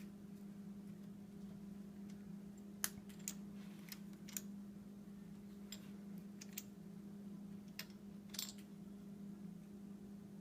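Steady low hum with about ten light clicks and taps scattered through, as of hands working at a milling machine's table and controls.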